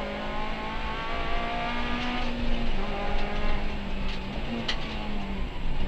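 Honda Civic Type-R FN2 rally car's four-cylinder engine running at high revs along a straight, heard from inside the cabin, with tyre and road noise. The engine pitch holds high and dips slightly twice, the second time near the end, with a couple of sharp ticks in between.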